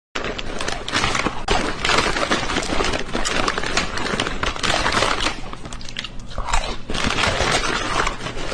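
Close, continuous crunching and crinkling: a dense run of small, irregular cracks.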